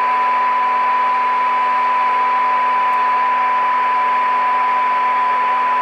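Steady test tone with hiss from the speaker of a Marconi 2004 transistor radio as it receives a modulated 455 kHz signal-generator signal during IF alignment. The set sounds weak, 'kind of deaf', with the hiss high against the tone.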